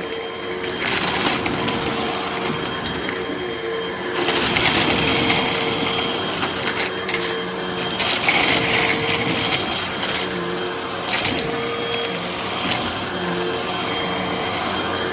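Hoover vacuum cleaner running steadily while it sucks up a mix of small crunchy debris, which crackles and rattles into the machine in uneven bursts.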